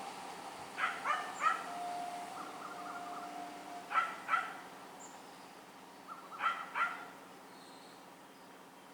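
A dog barking three times, each time in a short burst of two or three barks, over background noise that slowly fades.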